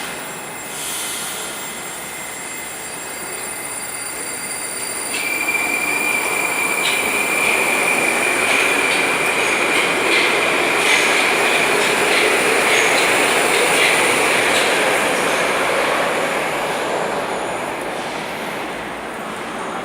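Moscow metro train running on the rails through the station, with a steady high wheel squeal setting in about five seconds in. The noise grows louder through the middle and eases off toward the end.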